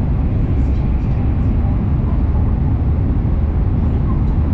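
Steady, loud running noise of an N700S Shinkansen at speed, heard inside the passenger car: a deep, even rumble with no distinct events.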